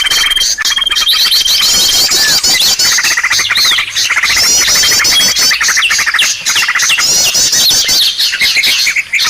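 Lure recording for small birds: a loud, dense mix of many small birds' chirps, trills and fast repeated calls layered over one another, with a steady high whistle held for about a second and a half near the start.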